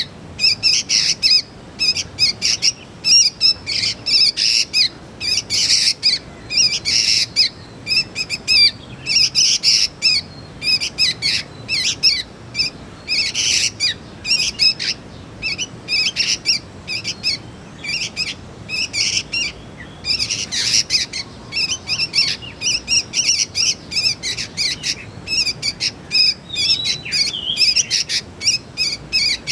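Young sooty-headed bulbuls (kutilang) calling: a rapid, unbroken run of short chirps, several a second.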